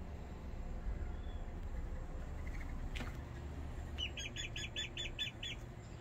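A bird calling: a quick run of about seven short, high, identical notes, about five a second, starting about four seconds in. A steady low rumble lies underneath.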